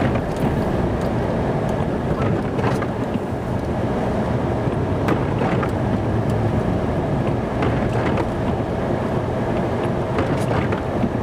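Snow-plow truck's engine running steadily while plowing a parking lot, heard from inside the cab, with a few faint clicks and knocks scattered through it.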